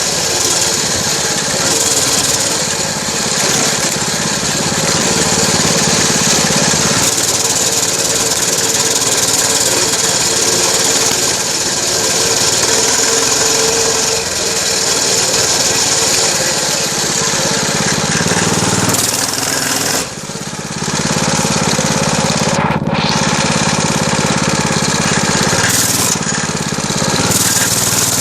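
Dirt bike engine running hard during a ride, its note changing with throttle and gears several times, with a brief drop in loudness about twenty seconds in.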